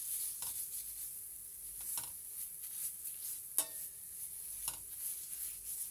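Laksa curry paste and chopped onions sizzling in oil in a stainless steel pan, stirred with a metal spoon that clicks and scrapes against the pan a few times, the loudest knock about three and a half seconds in.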